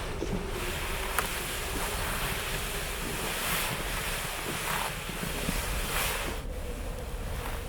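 Blizzard wind blowing in surging gusts and buffeting the microphone, with a single sharp click about a second in.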